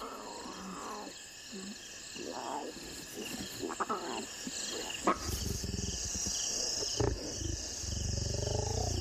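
Lionesses growling and snarling at their suckling cubs: a few short growls, then a deeper, longer snarling growl from about halfway, warning the cubs off the teats.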